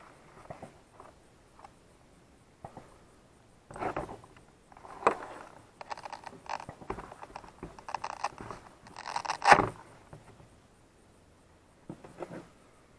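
Handling noises of a LiPo flight battery being taken out of a foam RC jet and hooked up for a voltage check: irregular scrapes and rustling with a few sharp clicks, the loudest click about nine and a half seconds in.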